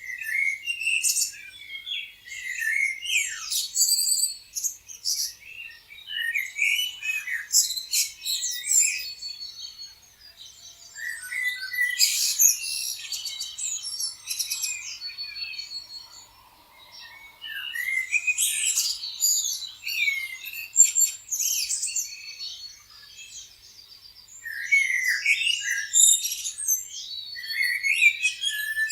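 Several songbirds chirping and singing together in overlapping bouts of quick, high-pitched calls, with short lulls every several seconds.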